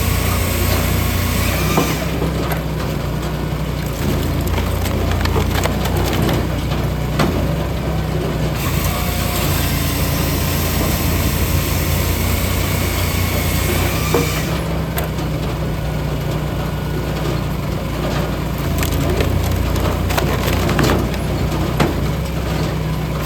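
A log splitter working: its engine runs throughout, with a change in tone every few seconds, while wood cracks and splinters as it is split, in many sharp cracks.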